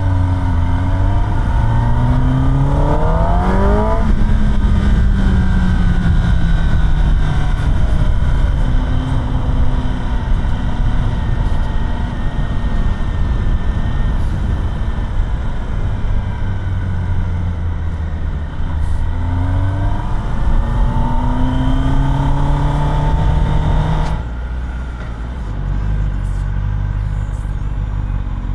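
Kawasaki ZX-10R inline-four on its stock exhaust, under way: it accelerates with a rising pitch, eases off, then accelerates again, over steady wind and road noise. The sound changes abruptly a few seconds before the end.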